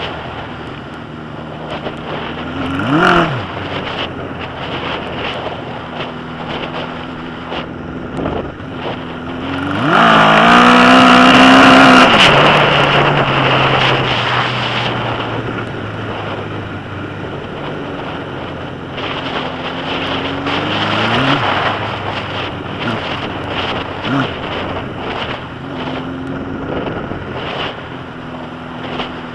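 1981 Suzuki GS1000's air-cooled inline-four running through straight pipes, with short throttle blips. About ten seconds in, a hard rev climbs in pitch and then falls away slowly, and the engine opens up again a little past halfway. Wind noise on the microphone.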